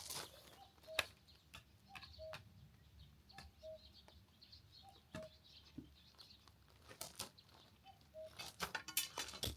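Sharp knocks and cracks of wood being struck or broken, spaced a few seconds apart with a quick cluster near the end. A short note repeats faintly in the background, like a bird calling.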